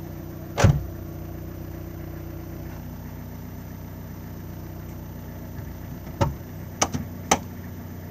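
Opel car engine idling steadily, heard from inside the cabin, with one heavy thump about a second in and a few sharp clicks near the end.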